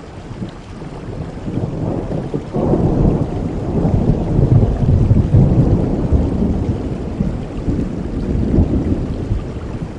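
Thunder rolling over steady heavy rain: a deep rumble swells suddenly about two and a half seconds in, peaks, then slowly dies away.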